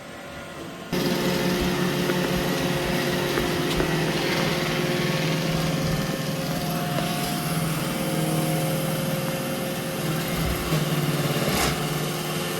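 Roomba i3 robot vacuum running: a steady motor whir with a few constant tones over a rushing hiss, switching on suddenly about a second in. A brief knock near the end.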